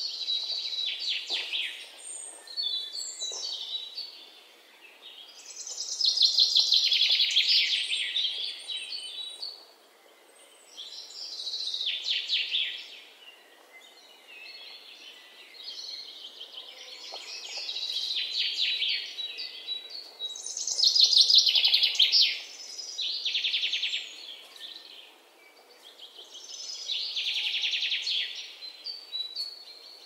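Bird song: a bird singing about eight fast trilled phrases, each one to three seconds long, with pauses of a few seconds between them, over faint outdoor background hiss.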